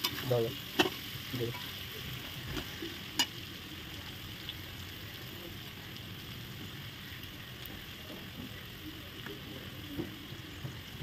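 Diced potato and papaya sizzling in oil in a metal wok, stirred with a steel spatula, with two sharp clicks of the spatula striking the pan, about a second in and about three seconds in. A brief voice is heard at the start.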